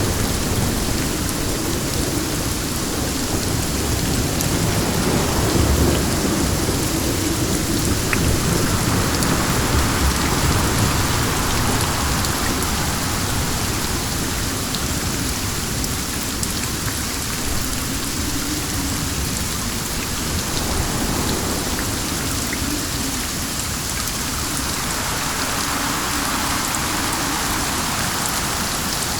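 Steady rain falling, with wind swelling and easing twice, and a low rumble underneath.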